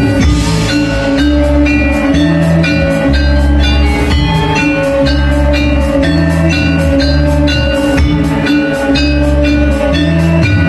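Balinese gamelan playing: rapid struck metallophone notes over sustained low tones, with drumming.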